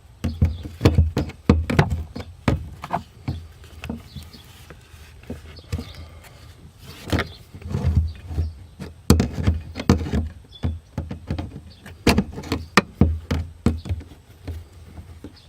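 Rubber fuel hose squeaking as it is twisted on the plastic outlet of a BMW E46 fuel pump, mixed with irregular clicks and scrapes of diagonal cutters working the hose clamp.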